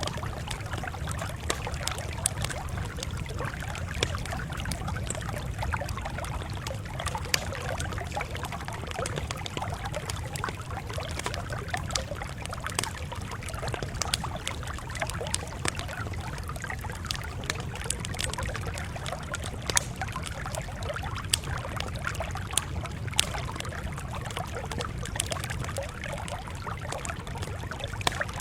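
Campfire crackling, with sharp pops scattered throughout over a steady low rumble.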